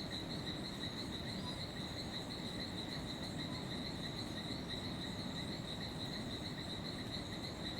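Rainforest evening chorus: one steady, high-pitched insect-like trill with a faint pulse, over a low even background hiss.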